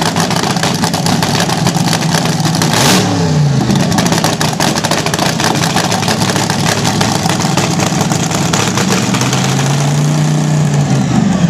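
Nitro-burning slingshot dragster engine with open headers, cackling loud and fast. It is blipped: the pitch drops and comes back up about three seconds in, then climbs again near the end.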